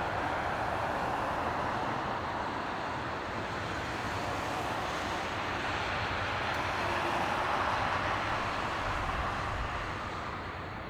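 Jet engine noise from a landing Airbus A321neo: a steady broad rush that swells slightly about two-thirds of the way through and begins to fade near the end.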